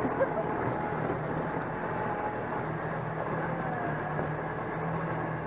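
Side-by-side UTV engine running steadily as the machine wades into lake water, with a constant wash of churning, splashing water.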